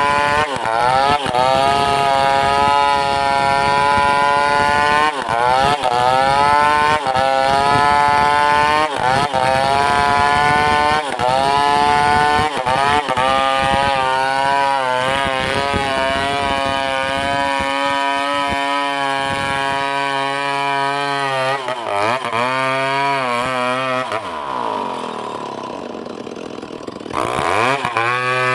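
Chainsaw cutting ironwood at high revs, the engine pitch dipping under load every second or two, then running steadier. About three-quarters through it drops back toward idle, then revs up again near the end.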